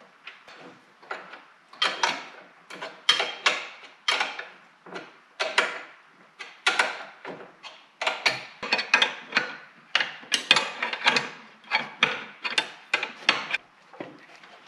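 Hand tools working on metal parts: an irregular run of sharp clicks and clanks, several a second, as a bracket is bolted up.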